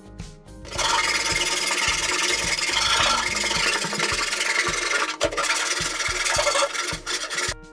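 A power tool working on material, a loud, steady, harsh noise that starts about a second in, falters once and stops just before the end; background music plays underneath.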